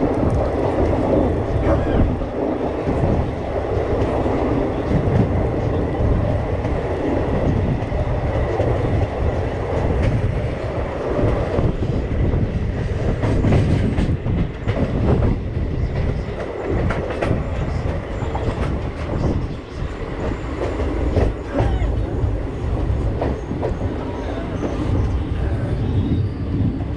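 Running noise of an express passenger train coach at speed, heard from its open door: a steady rumble of wheels on rail with irregular clicks and clatter as the wheels pass over rail joints.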